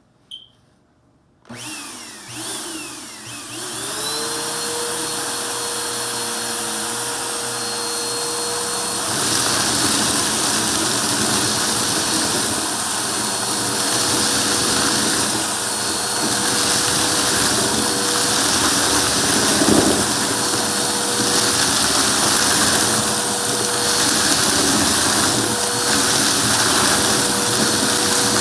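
Vacuum cleaner switched on with a click, its motor spinning up in a rising whine and then running steadily. About nine seconds in it gets louder and more hissy.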